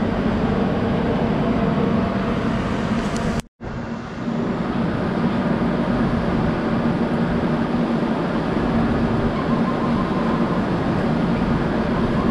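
Train at a railway station, a steady rumble with a low drone, cut off to silence for an instant about three and a half seconds in before it carries on unchanged.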